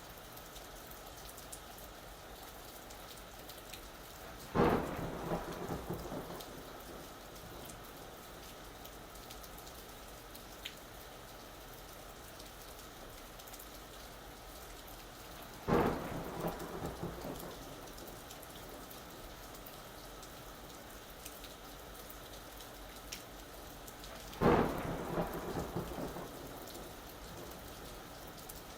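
Steady rain falling, with three sudden claps of thunder, about ten seconds apart, each crackling and rumbling away over a second or two.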